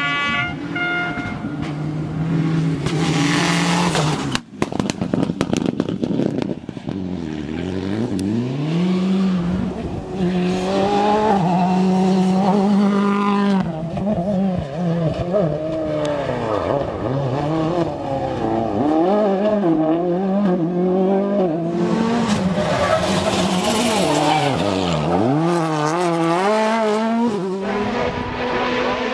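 World Rally Car engines revving hard and changing gear as cars drive a rally stage, the pitch climbing and falling with each shift. There is a steep drop in pitch as a car goes by about seven seconds in and again around twenty-five seconds in.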